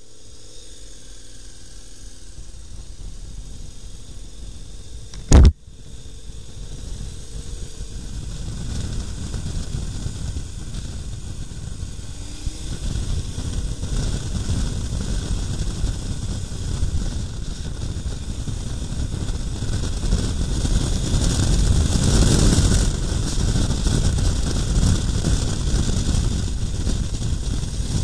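KTM 1090 R motorcycle on the move, its engine and wind noise building from quiet to a steady loud rumble as it gets going. A single sharp knock about five seconds in.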